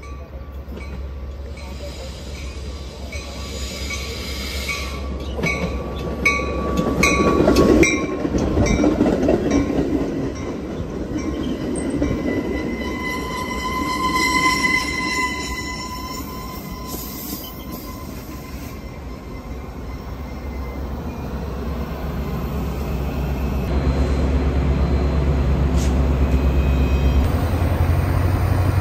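Metra bilevel commuter train passing close by, its wheels clicking over the rail joints and squealing with a thin high tone. A deeper low rumble builds over the last few seconds.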